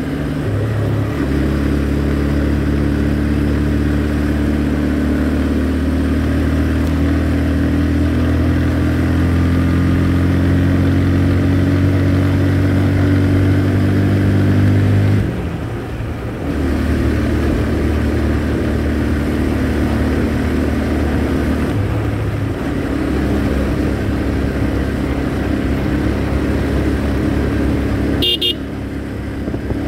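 Motorcycle engine running steadily while riding, with the engine note easing off briefly three times, about halfway through, around two-thirds of the way and near the end. A short high-pitched beep sounds near the end.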